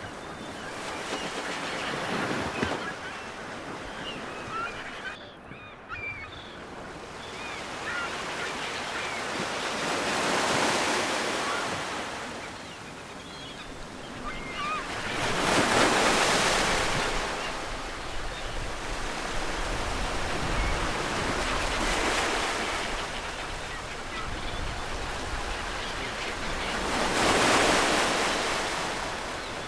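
Ocean surf: waves wash in and swell up and fade about every five to six seconds. Bird calls sound in the first several seconds.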